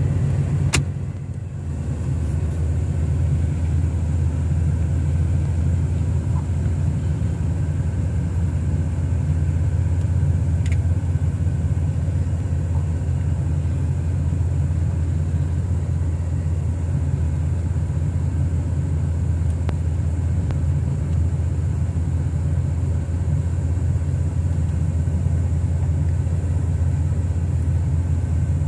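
1979 Buick Regal's 301 V8 running at low speed, a steady low rumble heard from inside the cabin as the car backs slowly out of the driveway. A single click sounds about a second in.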